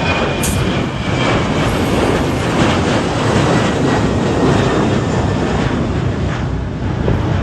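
Jet airliner engine noise, a loud, steady rumble, mixed with wind buffeting the microphone. A thin high engine whine fades out about a second in.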